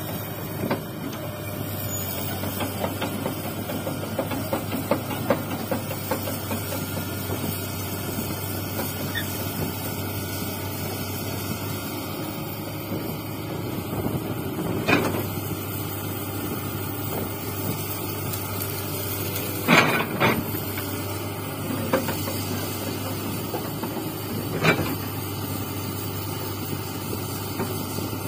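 Hydraulic excavator's diesel engine running steadily at work, with a few sharp clanks about halfway through and twice more toward the end.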